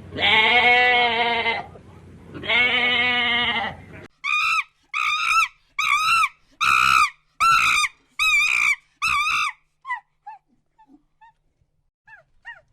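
Goat bleating twice, each bleat long and wavering. Then a different animal gives a run of short, high, arching calls, about two a second, that fade away into faint chirps near the end.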